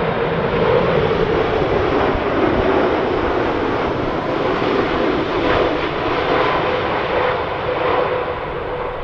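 Jet airliner on landing approach, its engines giving a steady whine over a loud rushing noise, with gusty crosswind buffeting the microphone.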